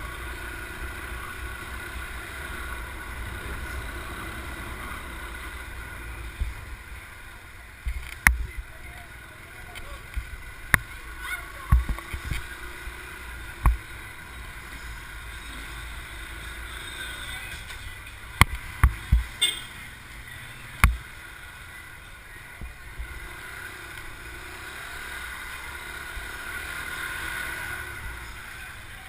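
Motorbike on the move: a steady low rumble of wind on the microphone with the bike running, broken by a scattering of sharp knocks, a few near the middle and a quick cluster about two-thirds of the way in.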